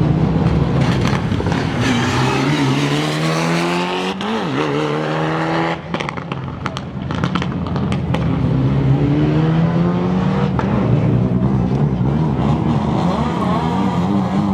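Prepared rally car engine revving hard and climbing through the revs, dropping sharply about four seconds in. There is a quick run of sharp exhaust cracks around the middle, and then the engine pulls up through the revs again.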